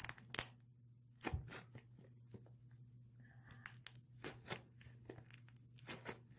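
Slime squeezed and kneaded by hand, making quiet, irregular squelching clicks and pops.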